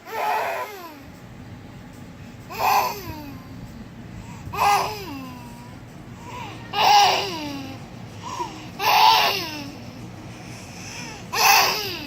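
A ten-month-old baby vocalising in repeated short calls, about one every two seconds, each sliding down in pitch.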